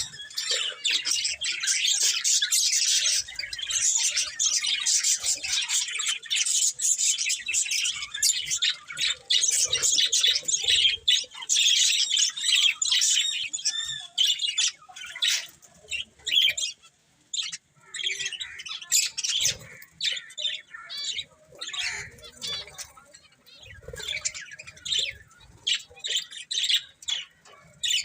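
Budgerigars chirping and singing. The chatter is dense through about the first half, then thins to separate chirps.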